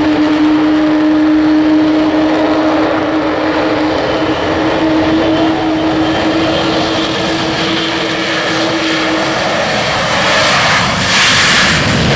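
Avro Vulcan bomber's four Olympus turbojets running: a steady whine over a wide rush of jet noise, the whine fading and the rush growing louder and brighter near the end.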